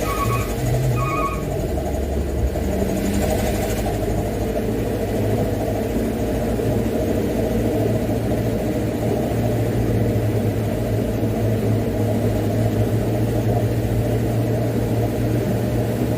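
Mitsubishi Canter dump truck's diesel engine running steadily while driving, a continuous low drone. A few short beeps sound in the first second, and a brief hiss comes about three seconds in.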